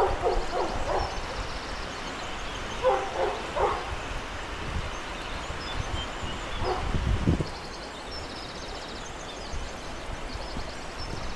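A dog barking in short bursts: a quick string of barks at the start, another pair about three seconds in, and a single one near the middle, over a steady low rumble.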